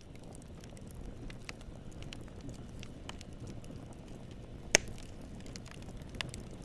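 Steady low noise with scattered small crackles and clicks, and one sharp loud pop a little past halfway.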